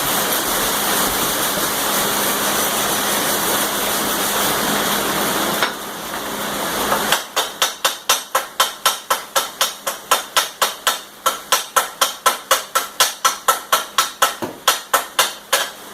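Electric arc welding crackling and hissing steadily for about six seconds, then stopping; after it, a hammer taps rapidly on the steel, about three to four even strikes a second.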